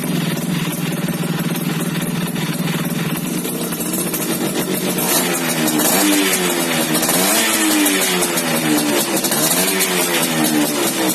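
Yamaha F1ZR's two-stroke single-cylinder engine running through an aftermarket racing exhaust, first idling steadily, then revved up and let fall back about three times from about five seconds in.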